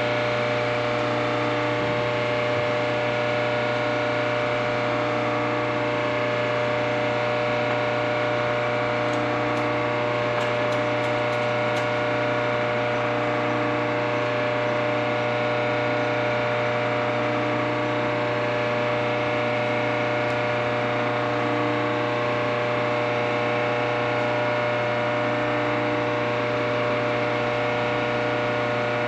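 Steady machine hum made of several fixed tones, with a fainter tone pulsing about every second and a half, and a few faint high clicks about ten seconds in.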